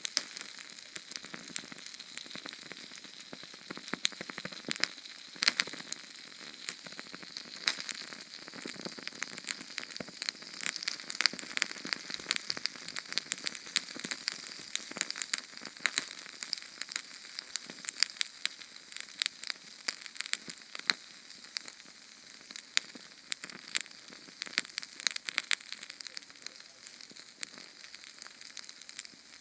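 Small Sterno flame burning: a steady hiss with dense, irregular sharp crackles and pops throughout.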